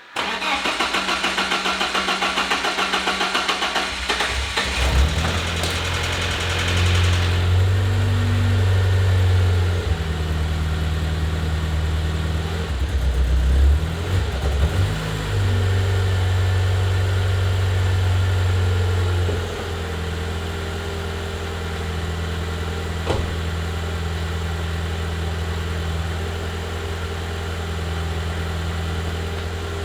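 BMW E36 Touring engine cranked over by the starter for four to five seconds, then catching and running unevenly with several rises and falls in revs before settling into a steady idle with a deep bass note from its new custom exhaust. This is its first start after six months and an engine regasket, and it won't rev properly because the lambda sensor is disconnected. A single sharp click comes near the end.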